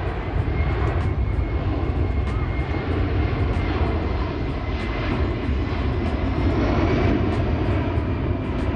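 Aircraft engine noise: a steady, loud rumble with a faint high whine above it, swelling slightly near the end.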